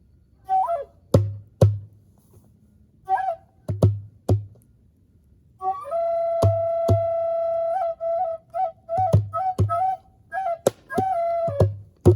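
Native American flute playing short breathy phrases and one long held note in the middle, accompanied by djembe bass strokes that fall mostly in pairs.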